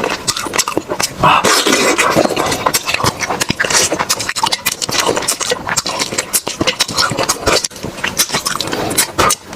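Close-miked eating sounds: loud, rapid crunching and chewing of food with many sharp crackles.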